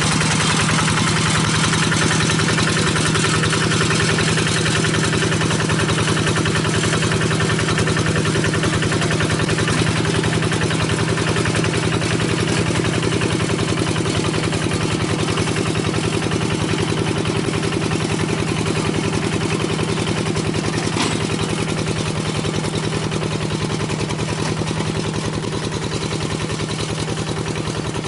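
Single-cylinder diesel engine of a paddy-field hand tractor running steadily at idle, with an even, rapid chugging and a slight fade near the end.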